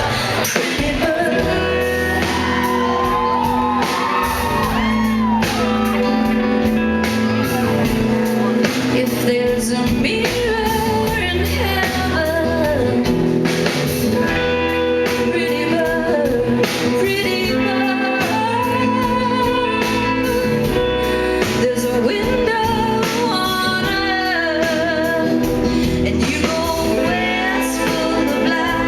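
Live band performance with a woman singing lead over guitar-led backing, heard as a concert recording from the crowd.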